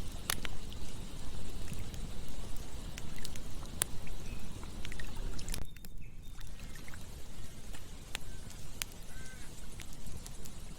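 Campfire crackling with scattered sharp pops over a steady rush of flowing water.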